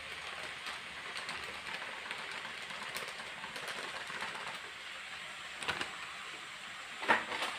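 Chopped onion, carrot and tomato frying in oil in a kadai, a steady sizzle with a fine ticking crackle. A few sharp clicks come through it, the loudest shortly before the end.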